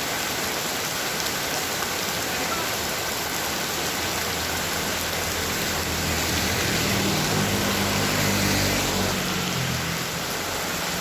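Heavy rain falling steadily. A low rumble swells from about four seconds in and fades near the end.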